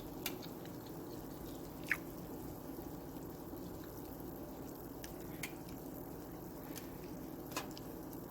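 Quiet eating sounds: a few small, sharp clicks and taps, the loudest about two seconds in, over a steady low hum.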